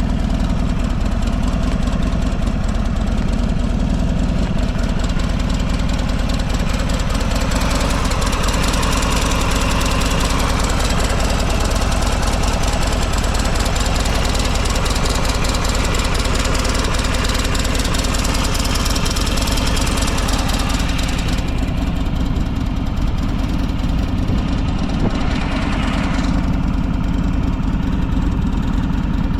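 Buell XB12SS Lightning's air-cooled V-twin idling steadily, with no abnormal noises, which the seller describes as very quiet. The higher hiss over the low engine note fades back about three-quarters of the way through.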